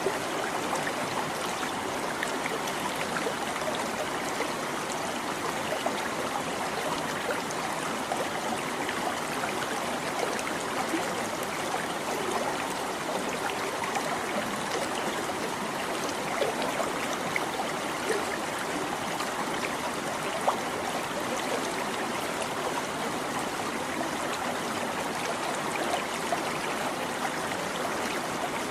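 Small stream babbling over rocks, a steady rush of flowing water with many small splashes and trickles.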